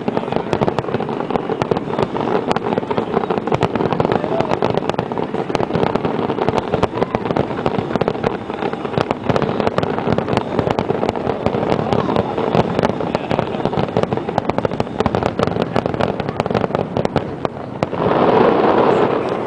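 A dense, rapid barrage of aerial fireworks shells bursting and crackling, overlapping without pause: the finale of the display. About a second and a half before the end the bursts stop and crowd cheering rises.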